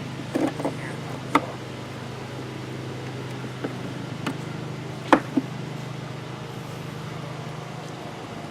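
Several sharp wooden knocks and clicks, two close together about five seconds in being the loudest, as wooden top bars and hive parts are handled and set back in place, over a steady low hum.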